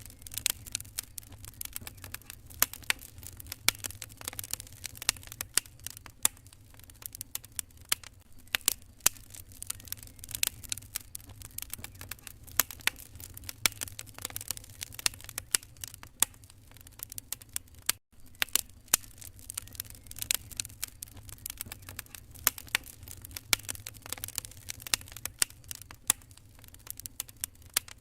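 Wood fire crackling in a fireplace: dense, irregular pops and snaps over a low steady rumble. The sound cuts out for an instant about 18 seconds in.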